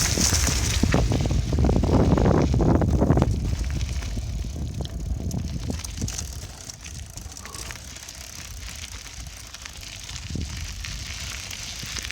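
Bicycle riding: wind buffeting the microphone over the rolling of the tyres, with a scatter of small crackles and rattles. It is loudest for about the first three seconds, then eases to a quieter rumble.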